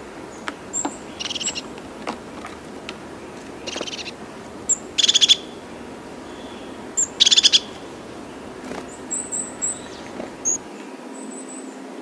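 Birds calling: four louder calls, each about half a second long, spaced one to three seconds apart, with short high chirps in between and a small run of chirps near the end, over a steady background hiss.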